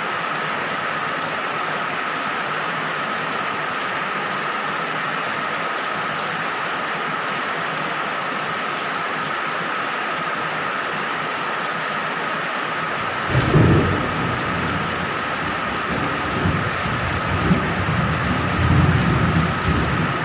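Steady rain hiss, with a low rumble of thunder breaking in suddenly about two-thirds of the way through and rolling on in several swells.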